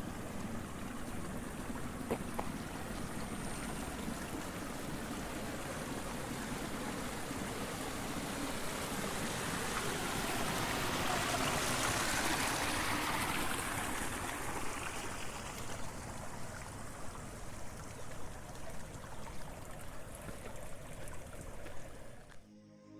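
Water rushing and trickling in a rice-terrace irrigation channel, swelling louder about halfway through and then fading. Near the very end it cuts off and gentle ambient music begins.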